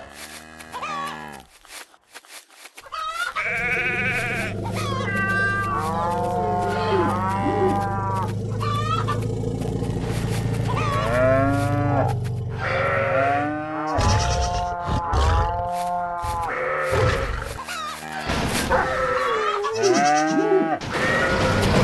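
Cattle mooing: many short, arching calls one after another, from several animals.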